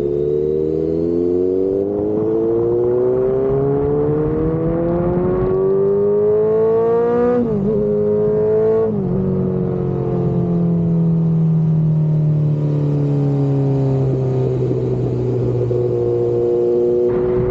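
Kawasaki Z900 inline-four through an aftermarket exhaust, pulling hard with its note climbing steadily. About seven seconds in there is a quick dip, like a gear change, and it climbs again; from about nine seconds the note falls steadily as the bike slows.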